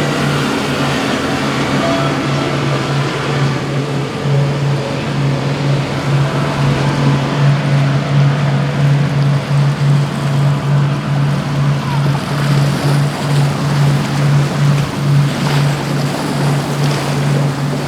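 Motorboat engines running over the rush of waves and wind, with a low throb that pulses about two to three times a second.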